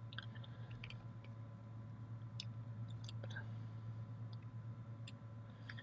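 Faint, scattered small clicks and rustles of a length of stripped, twisted copper wire being handled, over a steady low hum.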